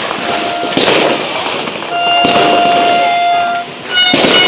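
Fireworks and firecrackers going off: several loud bangs with crackling between them. A steady horn-like tone is held for about a second and a half in the middle.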